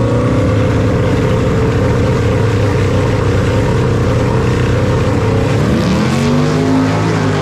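Drag-racing street car's engine run hard at high revs. Near the end its pitch drops sharply and climbs again, as on a gear change.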